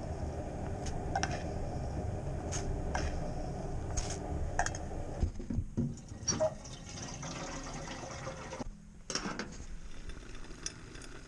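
Water pouring into a container for about five seconds, followed by scattered clinks and knocks of handled objects.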